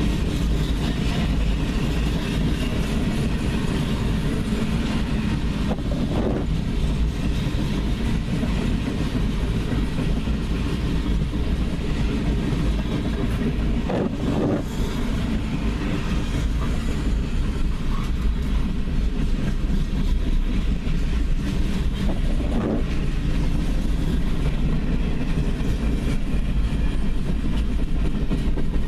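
Freight train cars rolling past on the rails, a steady rumble with clickety-clack of the wheels over the rail joints, heard from inside a car in the rain.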